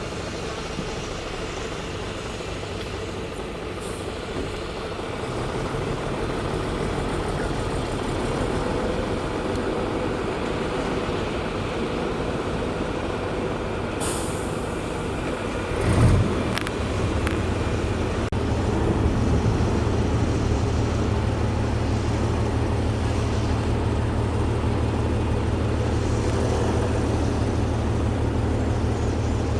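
Diesel engine of heavy road-building machinery running steadily. About fourteen seconds in there is a short hiss, and about sixteen seconds in a brief loud burst, after which a deeper, louder low drone sets in and holds.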